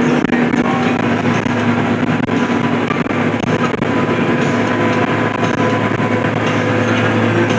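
Tractor and hay baler running steadily at work in the field, the engine holding a constant hum under load.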